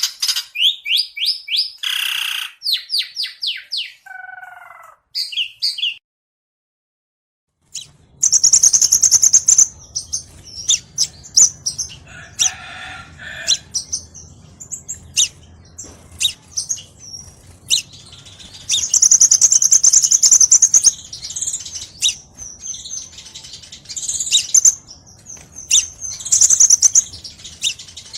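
Kolibri (sunbird) singing in fast runs of high, sharp chirps and trills. It breaks off about six seconds in, then carries on with shriller, higher chirps over a faint low background rumble.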